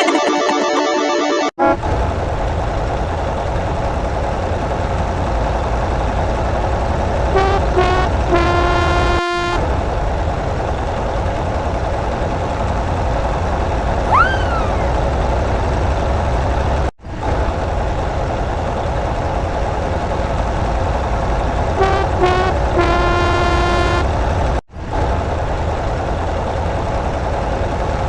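A heavy vehicle's engine runs with a steady low rumble, cutting out briefly three times. Twice, a horn sounds a couple of short toots and then a longer blast.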